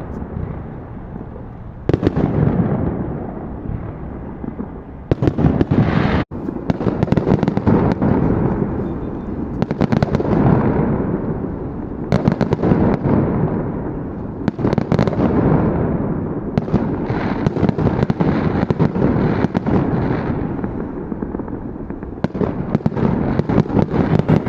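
Fireworks going off in repeated volleys: clusters of rapid crackling bangs every two to three seconds, with a continuous rumble of explosions between them.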